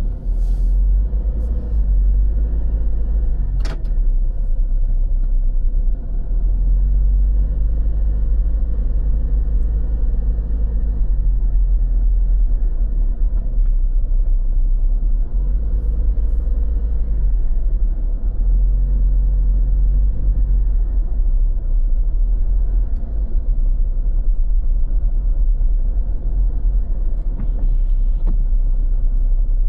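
Road traffic: motor vehicle engines swelling and fading as they pass, several times, over a heavy continuous low rumble, with a couple of brief clicks.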